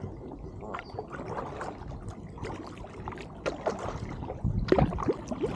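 Kayak paddle strokes in the water: blades dipping, splashing and dripping, with water gurgling against the hull. The splashes are loudest about four and a half to five seconds in.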